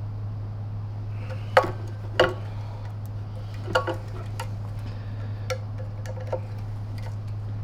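Light metallic clicks and taps, about seven separate ones, the loudest two about a second and a half and two seconds in, from small tools and parts being handled while working the copper carbon-brush holders on a vacuum cleaner motor. A steady low hum runs underneath.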